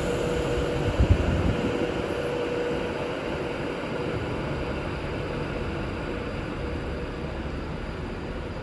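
Class 390 Pendolino electric train pulling out and moving away, a steady rumble with a thin steady whine that fades gradually. There is a low thump about a second in.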